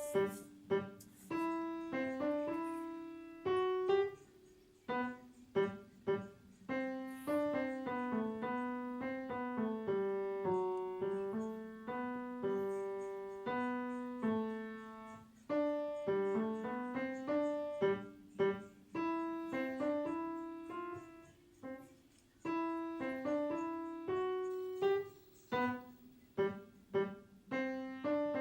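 Piano playing a simple, slow melody note by note over a lower line of notes, each note struck and left to fade, with a few brief pauses.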